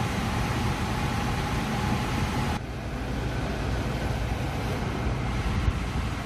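Steady rumble and hiss of a car's interior, with a faint steady tone that cuts off abruptly about two and a half seconds in, where the hiss also becomes duller.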